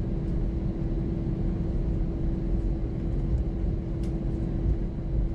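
Airbus A320 cabin noise while taxiing after landing: a steady low rumble from the engines at idle, with a steady hum running through it.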